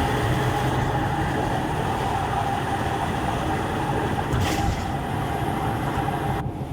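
Steady road noise of a moving vehicle, cutting off abruptly near the end.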